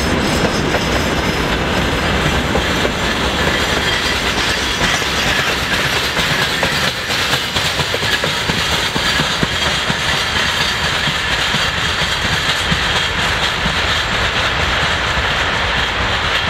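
Freight train wagons rolling past: steel wheels clicking over rail joints in a steady clickety-clack, over the continuous running noise of the cars.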